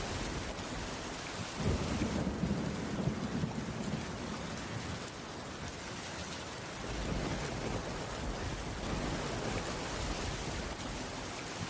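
Steady rain falling on a wooden cabin roof, with a low thunder rumble that swells in about two seconds in, eases for a couple of seconds midway, then builds again.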